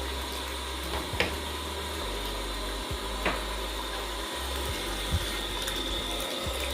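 Water running steadily from a bathtub tap, filling the tub. Three short knocks sound over the rush, about one, three and five seconds in.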